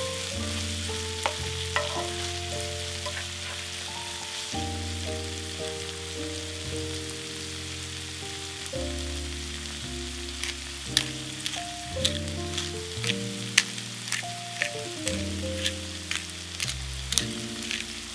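Food sizzling as it fries in oil in a pan, with sharp utensil clicks becoming frequent about ten seconds in as it is stirred. Background music with sustained notes plays underneath.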